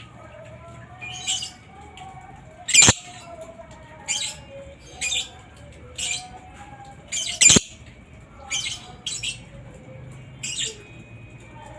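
Lovebird giving short, shrill squawks, roughly one a second, two of them much louder and sharper than the rest, over faint, lower bird twittering.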